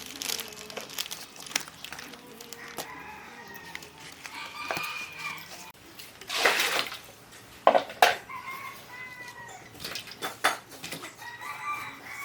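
Roosters crowing several times, each crow a drawn-out call about a second long, with hens clucking. A couple of loud bursts of noise come in the middle.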